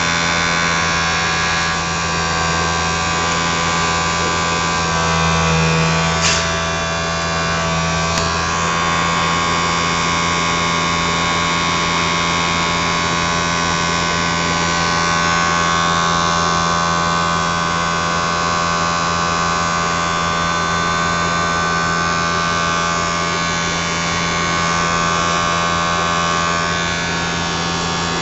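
Triangle blower motor running steadily: a continuous whirring hum with several steady tones, plus a brief click about six seconds in.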